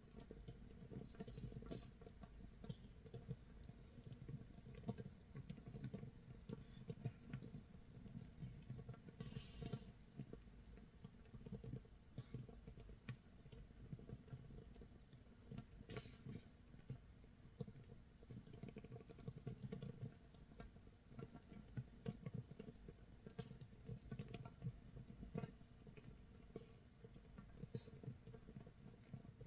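Makgeolli starter mash fermenting in an earthenware jar, 24 hours in: a faint, dense, irregular crackle of tiny pops as gas bubbles burst at the surface, like rain or rice crust toasting.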